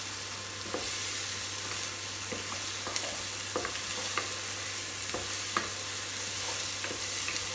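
Onion, garlic and paprika sizzling gently in olive oil in a pot over low heat, with a wooden spoon stirring and knocking against the pot every second or so.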